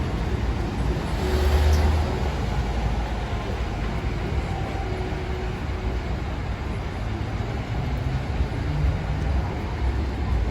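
Steady low engine rumble, louder for a moment about a second in.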